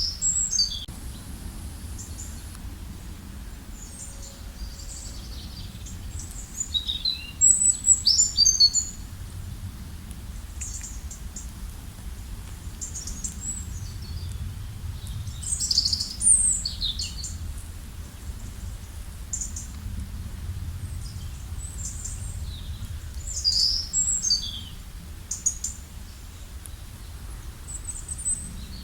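Songbirds singing in clusters of short high chirps and trills, with louder bursts now and then, over a steady low background rumble.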